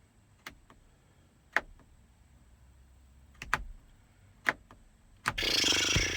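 A handful of sharp, separate plastic clicks from handling a car's dome light fixture and its switch, then a long, loud exhale near the end.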